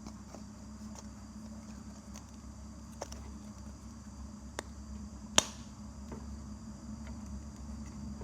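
Steady low hum with a few sharp clicks or taps, the loudest about five seconds in.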